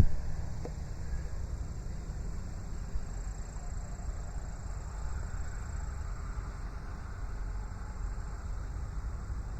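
Farmall 560 tractor engine running as the tractor drives in, a steady low rumble, with a brief loud thump right at the start.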